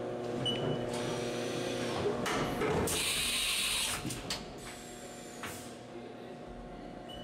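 CNC machining center running with a steady hum and a short high beep about half a second in. About three seconds in comes a hiss roughly a second long, after which the machine runs more quietly, as it changes over to the next operation, a 5 mm drilling.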